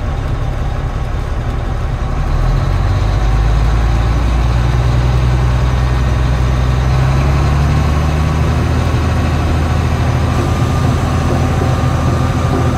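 Heavy vehicle engine running steadily, growing louder about two seconds in and holding there, with a slight shift in its low hum near the end.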